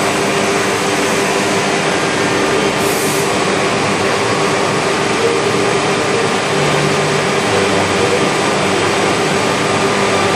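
Routech Chronos NT 5-axis CNC router running, machining wood. It makes a steady, loud noise with several high whining tones held throughout, typical of the spindle and cutting.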